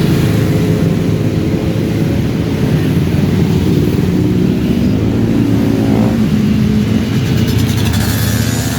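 Motorcycle engines running steadily in a group ride, with a brief change in engine pitch about six seconds in.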